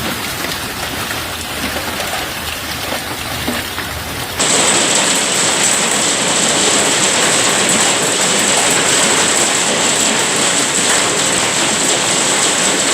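Heavy rain pouring down on surfaces, an even hiss. About four seconds in it cuts suddenly to a louder downpour with a steady high-pitched whine over it.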